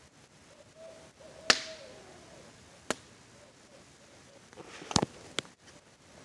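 Campfire crackling: four sharp wood pops, the loudest about a second and a half in and two close together near the end. Faint owl hoots sound in the background during the first second and a half.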